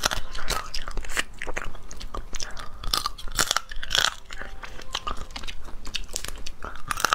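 Close-up chewing and biting of cooked crab: a quick run of crunches, crackles and wet mouth clicks, several a second, as the meat is bitten and the shell is cracked.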